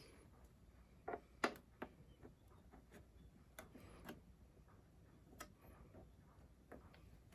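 Scattered small clicks and taps at irregular intervals over near silence, the loudest a pair about a second in.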